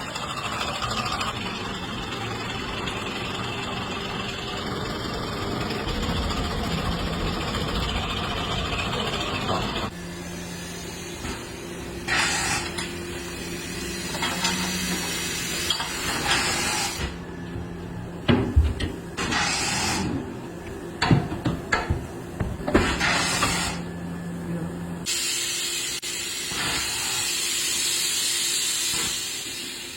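Compressed air hissing loudly and steadily during tractor tyre work, stopping about a third of the way in. A steady machine hum follows with a few sharp knocks, then the air hiss starts again near the end.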